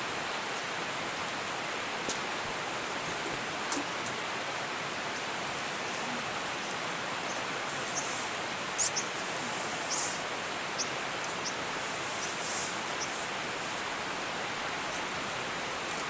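Steady rushing noise of flowing river water, with a scattering of short, faint, high crackles or ticks over it.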